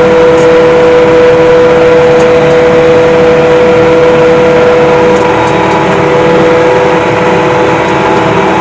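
Farm tractor engine running steadily, a constant drone with an even hum that holds its pitch throughout.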